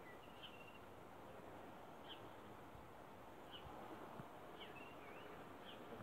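Near silence, with about six faint, short bird chirps scattered through it.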